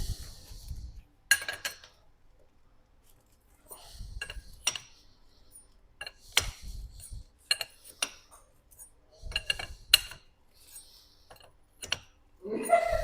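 Metal tools and small metal parts clinking and knocking at irregular intervals while a suspension shock absorber is taken apart.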